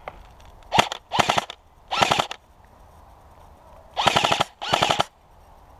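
Airsoft rifle firing rapid full-auto bursts: five short bursts, three in the first couple of seconds and two more about four seconds in.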